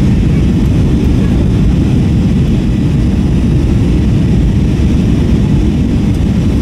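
Steady low rumble inside the passenger cabin of an Airbus A321-232 in flight: rushing airflow mixed with the drone of its IAE V2500 jet engines, even and unbroken.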